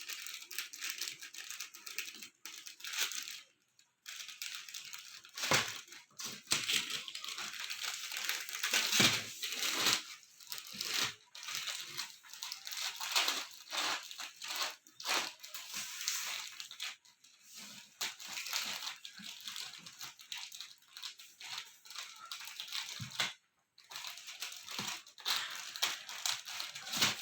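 Parrots crunching and tearing at dry Maggi instant noodles and scuffling over them: a busy, irregular crackle of crinkles, snaps and small clicks, with a couple of brief pauses.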